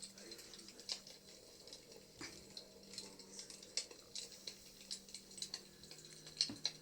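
Wood fire crackling in a fireplace: irregular sharp snaps and pops, a few louder ones about a second in, near four seconds in and near the end, over a steady faint low hum.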